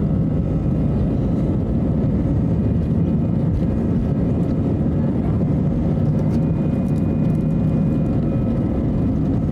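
Steady cabin noise inside an Airbus A320 heard from a window seat: a loud, even rumble of the CFM56-5B engines and airflow, with a faint steady hum above it.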